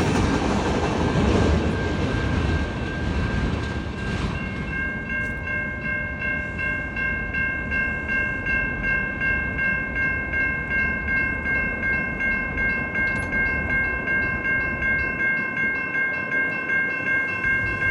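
Short Norfolk Southern freight train rolling by with a steady rumble. About four seconds in, a high ringing of several steady tones starts and holds, pulsing about twice a second.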